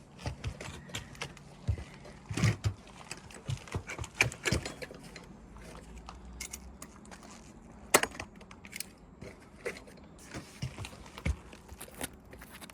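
Irregular clicks and light knocks, with the sharpest click about eight seconds in: a caulk gun being worked and asphalt shingles handled while caulk is put down under a lifted, brittle shingle.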